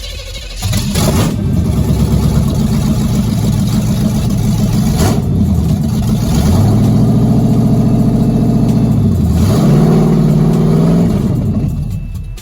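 1978 Chevy Nova's engine revving. It comes up loud about half a second in, rises and falls in pitch several times, then dies away near the end.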